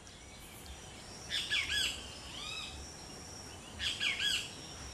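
Two bursts of bird calls, each a quick series of arching chirps, about a second in and again near the end, over faint outdoor ambience.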